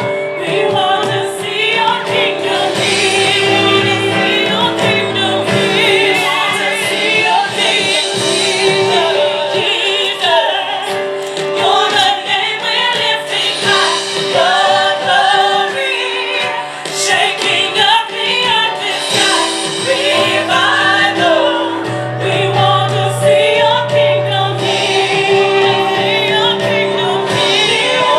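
Live gospel music: a small group of women singing together, their voices wavering with vibrato, over piano and drums.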